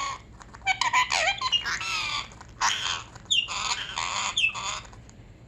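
A pet parrot squawking in a run of short, loud calls, some of them sliding up and down in pitch, trailing off near the end.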